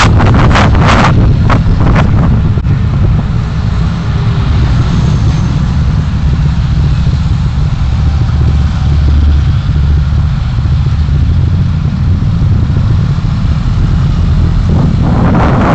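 Loud, steady low rumble of a car in motion, engine and road noise as picked up by a dashcam's microphone. A few sharp knocks come in the first two seconds and again near the end.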